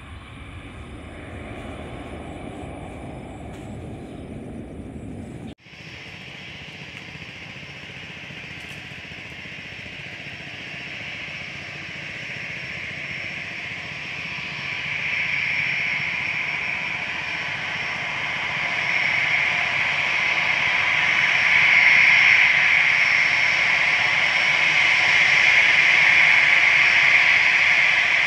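Wind rumbling on the microphone for about five seconds, then after an abrupt break the whine and rush of a Boeing 737-300's jet engines, growing steadily louder.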